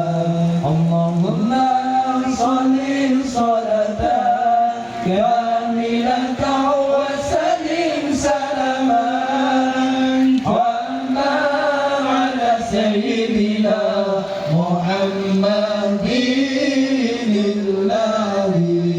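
Sholawat chanted in long, wavering held notes that glide from pitch to pitch without a break.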